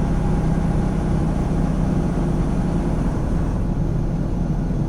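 Semi-truck running steadily down the highway, heard from inside the cab: an even engine drone with road noise.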